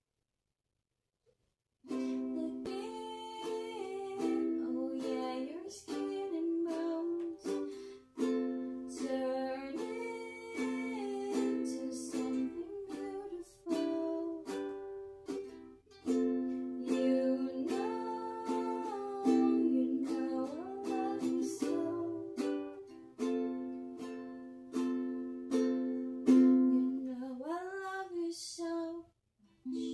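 Ukulele strummed and picked in a small room, starting about two seconds in and playing chords and a melody without a break. Near the end come a few sliding notes and a final chord.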